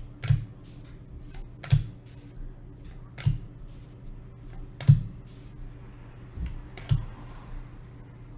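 Hockey trading cards being set down on a table one after another, each landing as a sharp tap with a dull knock, about six times at intervals of roughly a second and a half.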